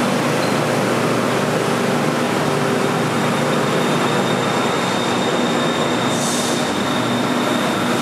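Steady running noise inside a moving Airport Rail Link train carriage: an even rumble and hiss from the train in motion, with faint steady whine tones laid over it.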